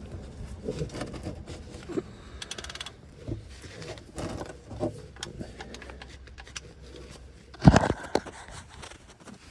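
Tools and metal parts being handled during car work: scattered clicks, clinks and scrapes, with one louder knock about three-quarters of the way in.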